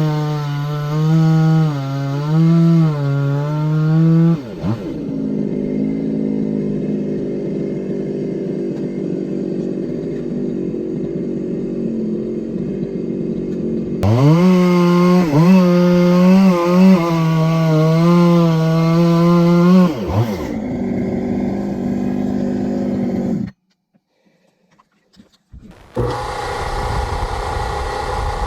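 Two-stroke chainsaw running at high revs, its pitch wavering as it cuts firewood: once at the start and again from about 14 to 20 seconds in. In between it runs steadier and lower. The sound cuts out almost completely about 23 seconds in, and a steady motor sound comes back for the last couple of seconds.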